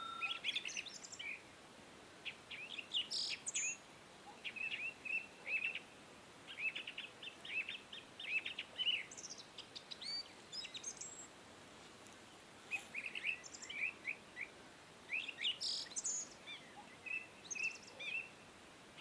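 Small birds chirping and twittering in quick, short calls that come in clusters with brief pauses between them.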